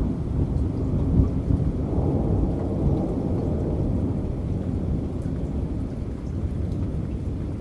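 Rolling thunder rumbling over heavy rain: a deep, low rumble that swells a second or two in and slowly eases off.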